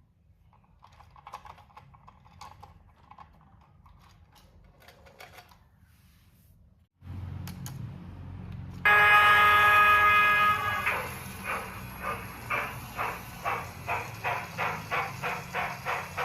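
Steam-locomotive sound effects from a model Union Pacific Big Boy: faint clicking at first, then a low hum. About nine seconds in comes a loud steam-whistle blast of about two seconds, followed by steady chuffing exhaust beats, about two to three a second, as the engine pulls away.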